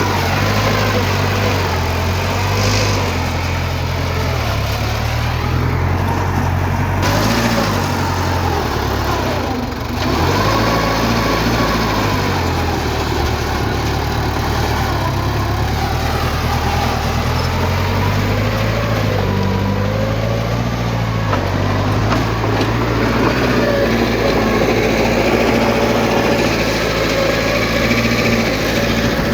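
Heavy diesel engine of earthmoving machinery running steadily, its pitch rising and falling as the engine speed changes, with a brief dip about ten seconds in.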